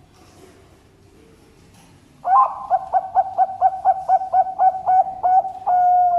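Perkutut bangkok (zebra dove) singing its song: a rapid run of about a dozen short cooing notes, about four a second, ending in one longer held coo.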